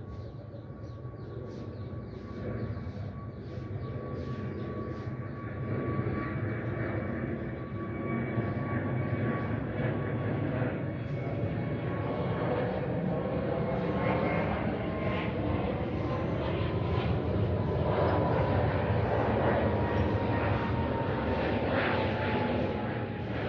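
A steady engine drone that grows louder, with a thin whine that slowly falls in pitch, like an aircraft passing overhead.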